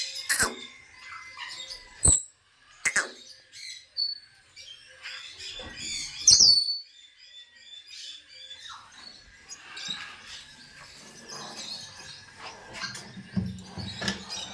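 Parrot chirping and whistling, with several sharp short calls and one loud falling whistle about six seconds in.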